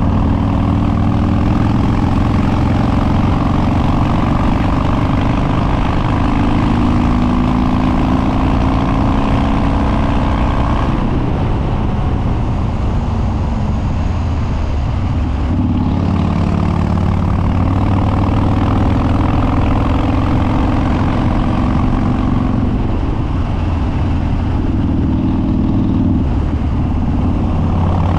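Harley-Davidson Twin Cam V-twin of a 2013 Dyna Street Bob running loud through unbaffled upswept dual exhausts, with stage-2 cams and an open air filter, heard from on the bike while riding. The exhaust note eases off about eleven seconds in, pulls strongly again around sixteen seconds, and dips and comes back once more near the end.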